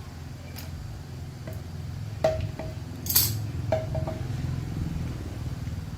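Metal clinking twice against metal, each strike ringing briefly, over a steady low motor hum; a short hiss about three seconds in.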